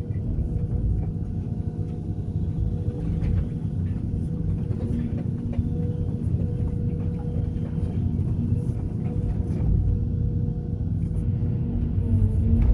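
Sumitomo SH210 excavator's diesel engine running steadily with a low rumble and a held hum, with a few faint knocks now and then as it loads concrete debris into a dump truck.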